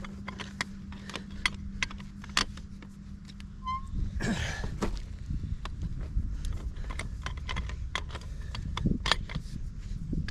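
Scattered sharp clicks and knocks of hands-on work over a steady low engine hum. The hum drops away about four seconds in, where there is a brief scraping rush.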